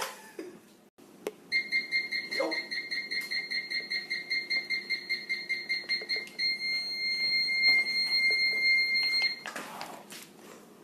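Electronic alarm: a high-pitched tone beeping rapidly, changing about six seconds in to a continuous tone that cuts off about nine seconds in.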